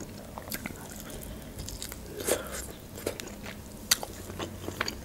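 Close-miked chewing and biting of a glazed chicken wing: a run of small crunches and wet mouth clicks, with two louder crunches a little past two seconds and near four seconds.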